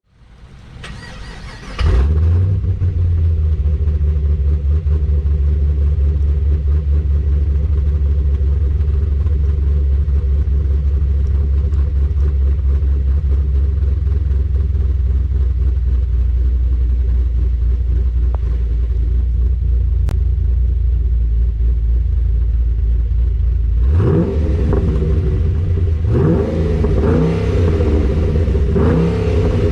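Pontiac G8 GT's 6.0-litre L76 V8 with a GPI SS1 camshaft and a muffler delete: the engine sound comes in about two seconds in and settles into a loud, choppy cammed idle. Near the end it is revved several times in quick blips.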